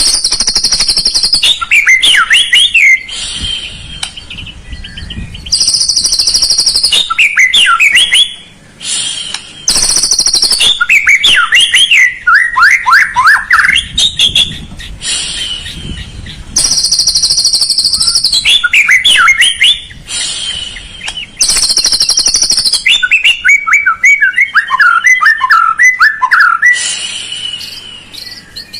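White-rumped shama (murai batu) song played as a lure track to get a quiet caged murai singing. Rapid runs of sweeping whistled notes alternate with held, buzzy high trills of two to three seconds, repeated over and over.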